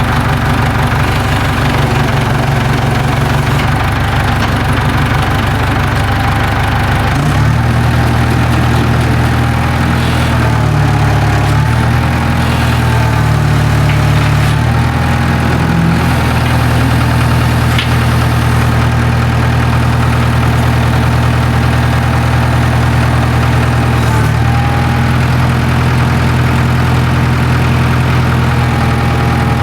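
International 270A backhoe's four-cylinder diesel engine running at idle, its note shifting about seven seconds in and wavering briefly after.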